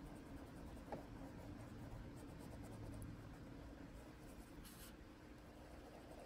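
Faint scratching of a Prismacolor coloured pencil stroked over paper, blending yellow into the colours already laid down, with a small tick about a second in.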